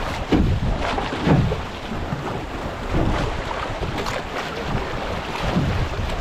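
Moving river water rushing and splashing around a canoe running a rapid, with irregular sharp splashes about once a second and wind buffeting the microphone.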